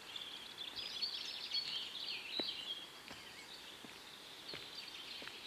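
Small birds chirping and twittering, a busy run of calls in the first half and then sparser chirps, over faint outdoor background noise.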